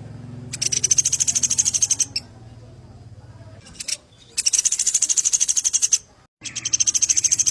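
A sampit songbird singing in full voice: three long, fast trills of rapid repeated high notes, each about a second and a half long, with short pauses between them.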